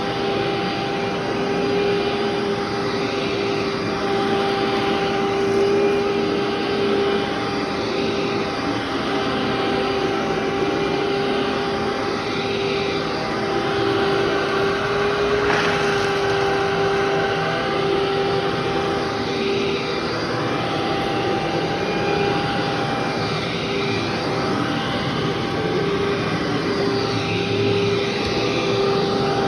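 Vacuum cleaner running steadily as it is pushed over carpet, a constant motor hum under a rushing airflow that wavers slightly in tone as it moves.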